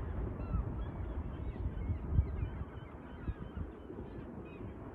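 Birds calling in many short, quick calls, over gusty wind buffeting the microphone.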